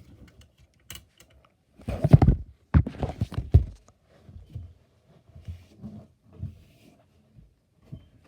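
Handling noise close to a phone's microphone: irregular bumps, rubbing and clicks as things are moved about, with a run of louder thumps about two to four seconds in.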